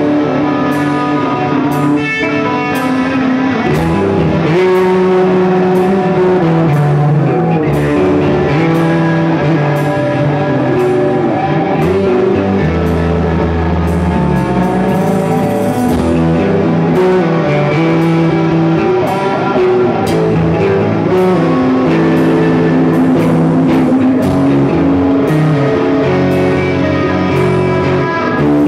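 Rock music: guitars over a drum kit keeping a steady beat.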